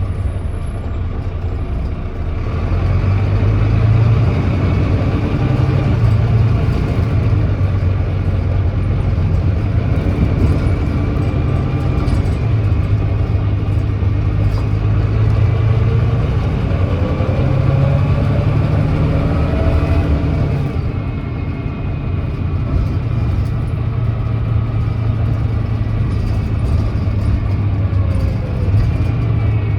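Volvo B9TL double-decker bus's Volvo D9B 9.3-litre diesel engine running under way, heard on board: its note climbs as the bus pulls, then drops back about two-thirds of the way through as it eases off. The bus has an exhaust leak.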